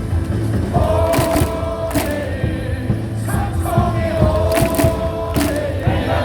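Baseball stadium crowd singing and chanting a cheer song together over loud amplified music, with sharp claps or beats cutting through.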